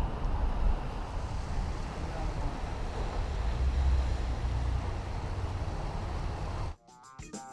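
Steady low rumble with wind noise on the microphone, as while travelling in a moving vehicle. It cuts off suddenly near the end and music begins.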